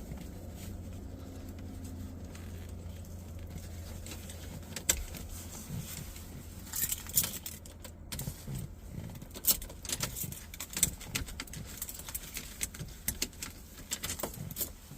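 Keys jangling and clicking against the ignition as the key is worked repeatedly in a van that won't start, over a low steady hum in the first few seconds.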